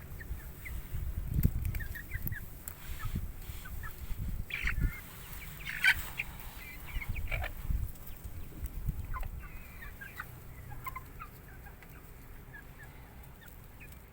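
Chickens clucking and chirping in short scattered calls, with some low knocks in the first half.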